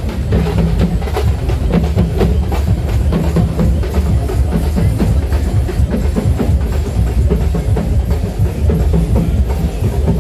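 Loud music driven by drums and percussion, with rapid, dense drum strokes over a heavy bass.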